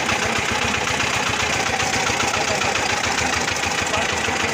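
Chinese diesel engine idling steadily, with a fast, even beat.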